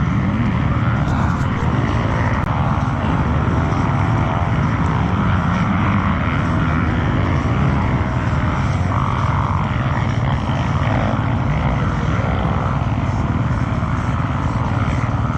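Racing motorcycle engines on the track, a loud steady drone with no let-up.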